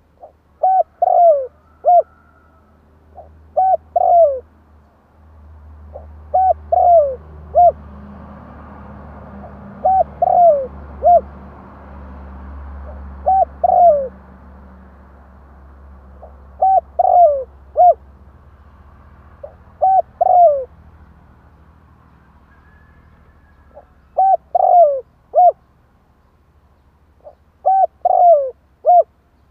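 Spotted dove cooing, used as a decoy call: about nine short phrases of three or four notes a few seconds apart, each with a longer note falling in pitch. A faint low rumble sits under the middle of the stretch.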